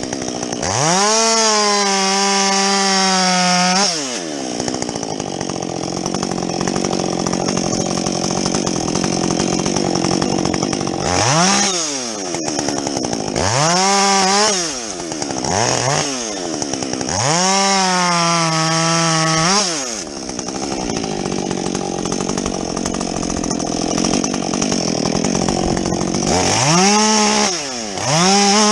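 Husqvarna 562XP two-stroke chainsaw with a modified muffler, revved to full throttle about five times with a high steady scream. In between are stretches where the engine pulls down into a rough, noisy drone as the chain cuts through the log.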